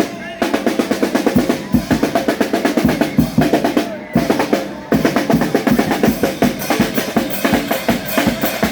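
Charanga street band playing: snare and bass drum beating a fast rhythm with rolls, with brass lines over it. The music drops out briefly just after the start and again at about four seconds.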